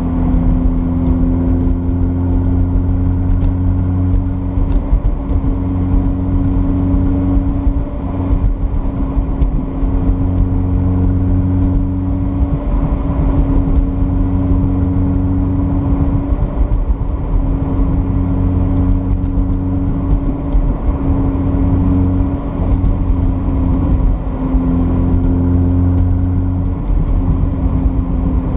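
A Toyota MR2's swapped-in 2GR-FE 3.5-litre V6 droning steadily at cruise, heard from inside the cabin over road and tyre noise. The engine note holds an even pitch, growing louder and easing back a few times.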